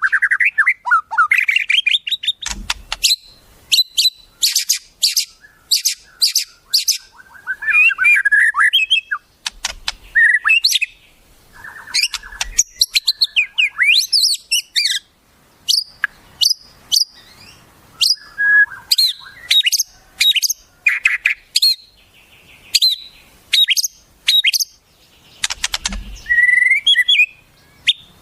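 Wild songbirds singing a fast, varied string of sharp whistles, rising trills and quick chip notes with short gaps between phrases. It is a bird-song recording of the kind played to teach caged white-rumped shamas new phrases.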